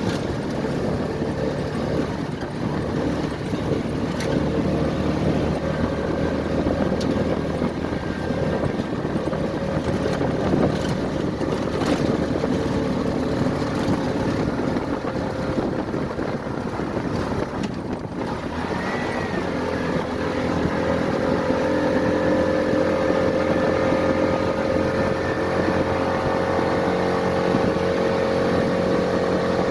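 An engine running steadily under a rushing haze of wind and water noise. Its hum grows louder and steadier about two-thirds of the way through.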